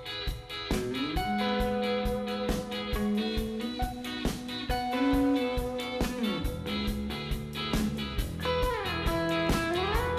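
Instrumental rock music: electric guitars and bass over a steady drum beat, with a guitar note sliding down and back up near the end.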